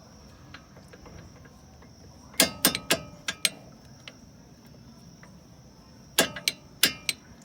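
Metal striking metal on the brake pad hardware while the loose pad spring is worked to stop its rattle: two quick runs of sharp, ringing taps, about five some two and a half seconds in and four more about six seconds in. A faint steady high-pitched chirring sound runs underneath.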